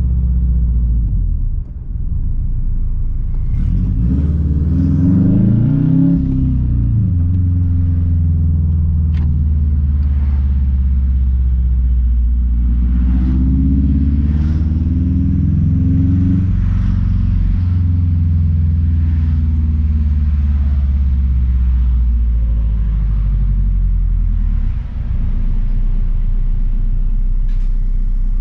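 2006 Subaru WRX STI's turbocharged flat-four through a straight-pipe exhaust, driving. The revs climb and drop a few seconds in and again around the middle, with short dips in loudness near the start and near the end.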